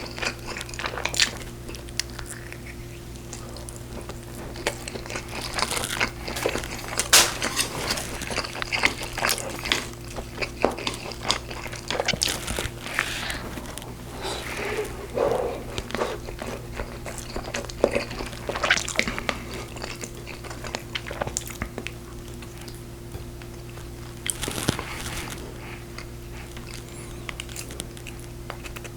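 Close-up eating sounds of a person chewing and biting braised pork ribs, with irregular short clicks and crunches throughout. A steady low hum runs underneath.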